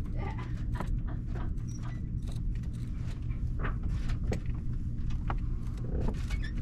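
Irregular clicks and scrapes of hands cutting and working a sail's bolt rope, over a steady low hum.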